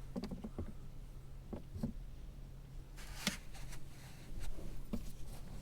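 A few small knocks and clicks over a low steady hum, with one sharper click about three seconds in.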